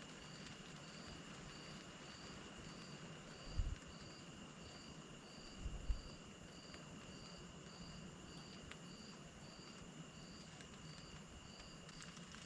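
Night insects: a steady high-pitched trill under a cricket chirping evenly about twice a second. There are two dull low thumps, one a few seconds in and another about two seconds later.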